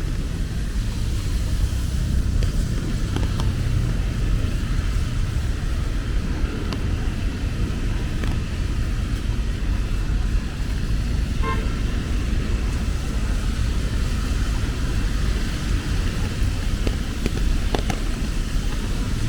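Steady city traffic rumble on wet streets, with the hiss of rain and tyres. A short horn toot comes about halfway through.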